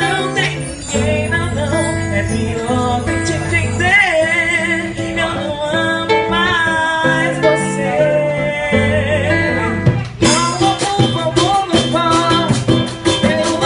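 Samba band playing: plucked strings and bass carry the tune, and percussion comes in strongly on a steady beat about ten seconds in.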